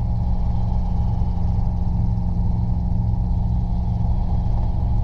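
Robinson R22 helicopter in cruise flight: its piston engine and rotors running at a constant steady drone, heard from inside the cabin.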